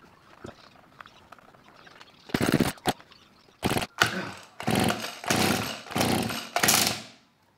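Petrol hedge trimmer being pull-started: after a quiet couple of seconds, about seven quick rips of the recoil starter, each a short burst of the engine turning over without catching. The engine won't start, and the worn pull starter is failing.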